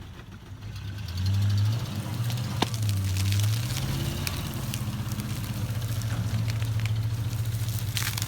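Pickup truck engine pulling under load, swelling twice in the first few seconds and then running steadily, with a few sharp cracks.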